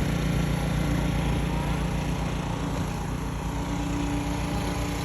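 An engine running steadily at an even speed, a low hum with no change in pitch.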